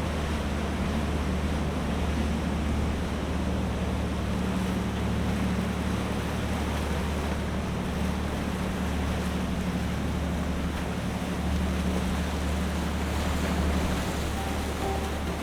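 Boat engine running steadily with a low drone, under water noise and wind buffeting the microphone.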